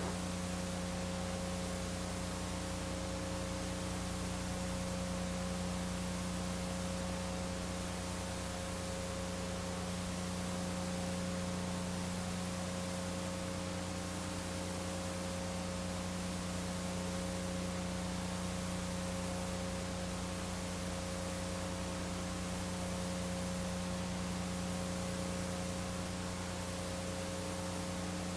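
Steady electrical mains hum with a layer of hiss, unchanging throughout, and no other sound on top.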